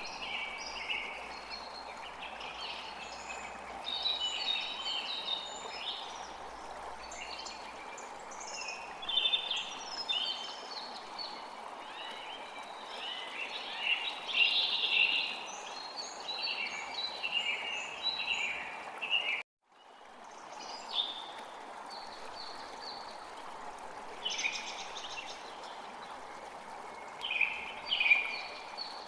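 A chorus of songbirds chirping and trilling, many calls overlapping, over a steady hiss of running water. The sound cuts out for a moment about two-thirds of the way through.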